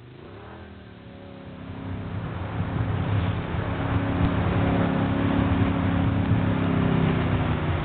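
Engine of an off-road trail vehicle revving up, then pulling steadily under throttle, growing louder over the first two or three seconds.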